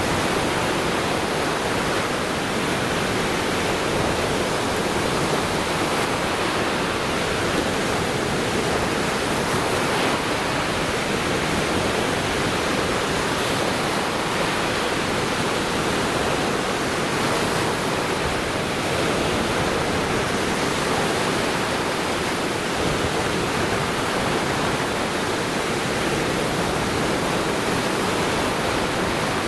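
Lake Michigan waves washing on the shore, a steady rushing surf noise with no separate surges.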